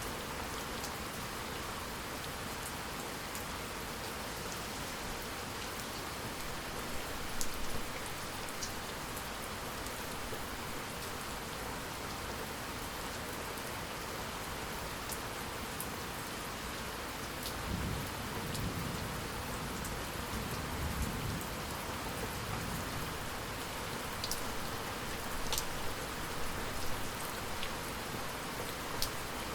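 Steady rain falling, with single drops ticking sharply on a surface now and then. A low roll of distant thunder rumbles for a few seconds past the middle.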